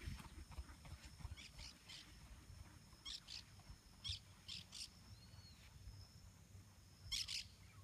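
Faint, short high-pitched bird chirps, mostly in quick pairs and small clusters about once a second, over a low steady rumble.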